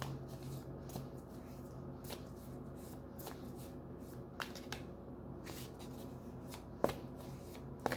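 A tarot deck being shuffled by hand: scattered light clicks and rustles of cards, with a couple of sharper snaps near the end.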